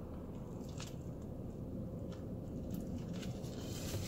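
Someone biting into and chewing a chicken sandwich, a few faint soft clicks of eating over a steady low hum.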